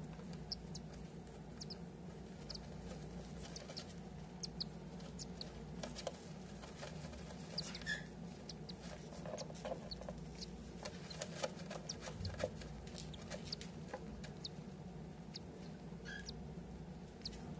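Short, thin, high peeps from a six-day-old whiteface cockatiel chick, scattered irregularly, with a few soft clicks. A steady low hum runs underneath.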